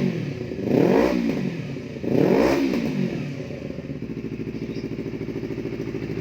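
Kawasaki Ninja 250 FI motorcycle engine through an aftermarket exhaust, blipped twice, about a second and two and a half seconds in, each rev rising and falling quickly. It then settles to a steady idle.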